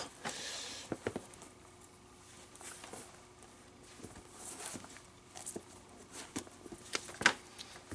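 Leather baseball glove and its leather lace being handled during relacing: soft rustling and scattered light clicks, with one sharper click near the end.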